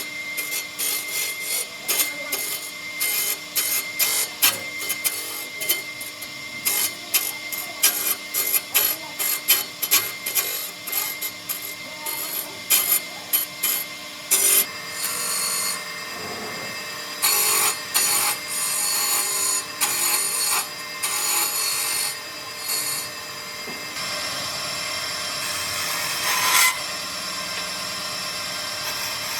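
Woodworking tools working wood: a long run of short, quick scraping strokes, then longer bursts and a steadier noise with one loud stroke near the end.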